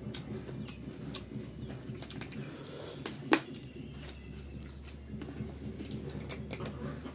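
Close mouth sounds of eating rice and chicken curry by hand: chewing with scattered wet clicks and smacks, and one sharper click about three seconds in.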